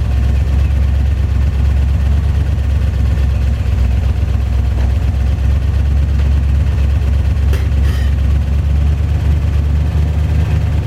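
A 1973 Chevy K20 pickup's engine running steadily with a deep low rumble, and a few light clicks partway through.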